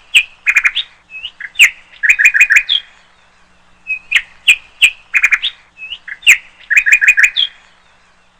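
A songbird singing loud, clear whistled phrases of quick, sharp notes. The same phrase comes twice, about four seconds apart.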